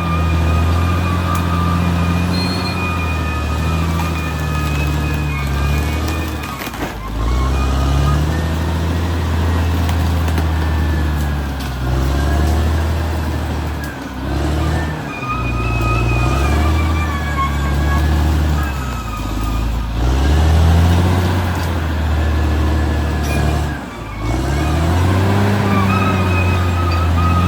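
Caterpillar D6R XL bulldozer's diesel engine running under varying load, its pitch dropping and climbing back up several times, with a wavering high whine over it.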